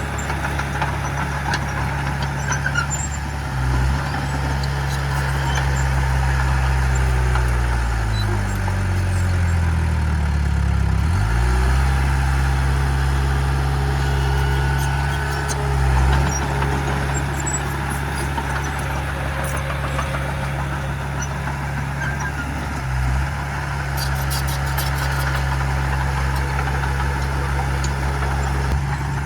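Heavy diesel engine of an earthmoving machine running steadily. Its pitch slides down for a few seconds about eight seconds in, then comes back up.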